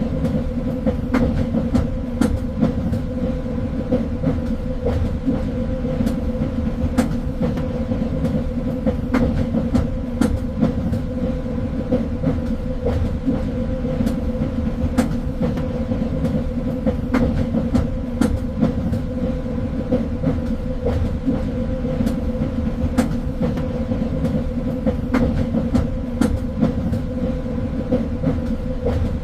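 A train running along the rails: a steady low rumble with a constant hum and irregular sharp clicks from the wheels on the track.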